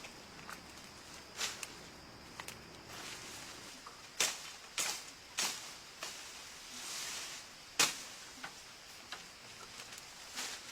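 A series of sharp knocks or cracks at irregular intervals, about half a dozen, the loudest about three-quarters of the way through, with a brief soft hiss shortly before it.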